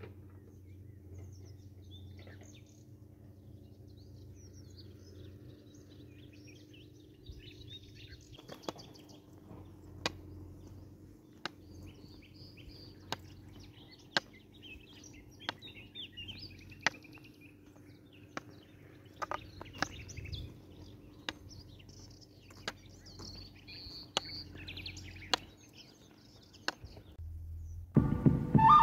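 Scattered small bird chirps over a faint steady low hum, with sharp ticks about every second and a half from about a third of the way in. Music starts right at the end.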